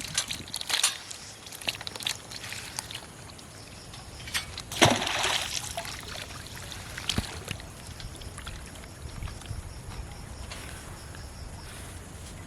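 Water sloshing and trickling, with a few short splashes, the loudest about five seconds in.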